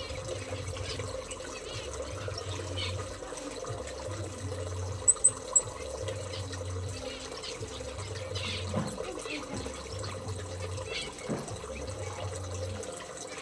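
Steady running or trickling water over a low hum, with three short, sharp, high-pitched chirps from a small bird about five seconds in.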